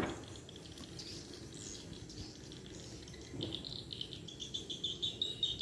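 Swiftlets twittering: rapid, stuttering high chirps, faint at first and stronger from about three and a half seconds in.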